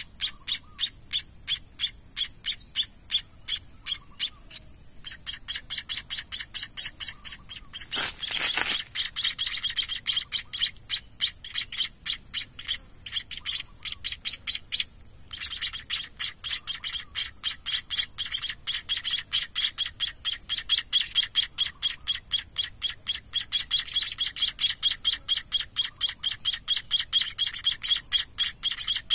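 Nestling munias, said to be white-headed munias (emprit kaji), giving a steady run of shrill begging chirps, about four a second, while being hand-fed. A short rustle comes about eight seconds in.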